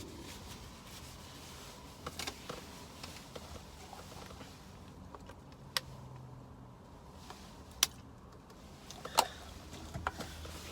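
A few short, sharp clicks and taps from handling things inside a car, the loudest about nine seconds in, over a low steady hum.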